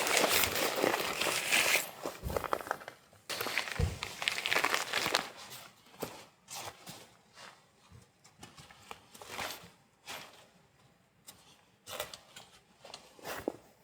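Rustling and handling noises for the first few seconds, then scattered light clicks and knocks with quiet gaps between them.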